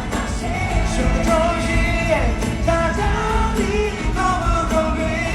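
Live concert music: a rock-pop band playing while a voice sings long, sliding held notes without clear words.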